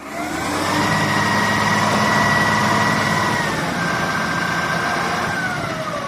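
Heavy diesel vehicle engine revving up, holding high revs for a few seconds, then easing off with falling pitch near the end.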